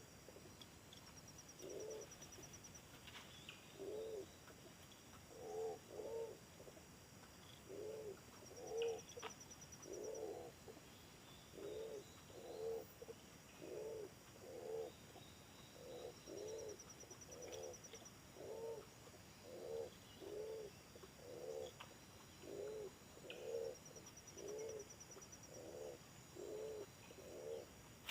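A dove cooing over and over, short soft two-part coos coming a bit more than once a second.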